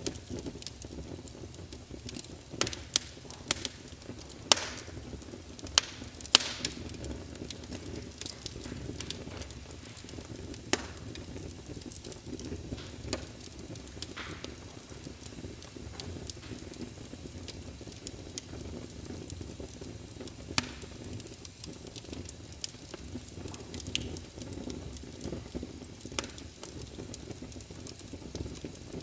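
Wood fire crackling in a fireplace: a steady low rumble of flames with irregular sharp pops and snaps, a cluster of louder pops a few seconds in.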